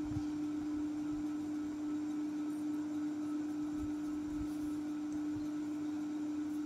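A steady hum held on a single pitch, with a few faint, soft low thumps under it.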